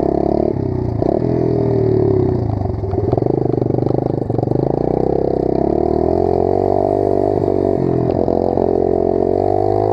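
Pit bike engine running under throttle as it is ridden, its pitch dipping about three seconds in and climbing back.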